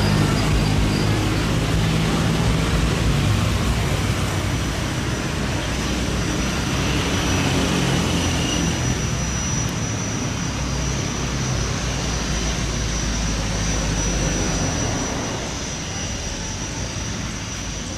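Jet aircraft engine running: a steady broad rush, with a high thin whine that comes in about halfway through and holds.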